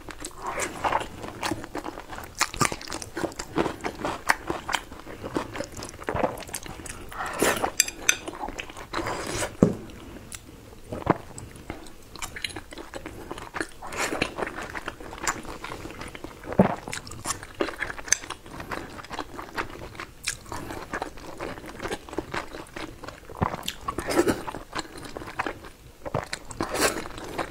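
A person chewing and biting pan-fried dumplings up close on a clip-on microphone: wet mouth noises with many short, sharp clicks at irregular intervals.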